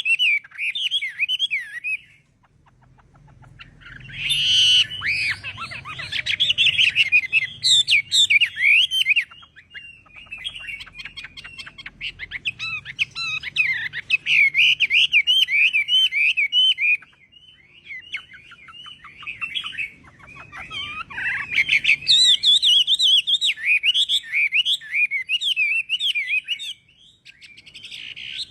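Chinese hwamei singing a loud song of rapid, varied phrases that glide quickly up and down in pitch, broken by a few short pauses.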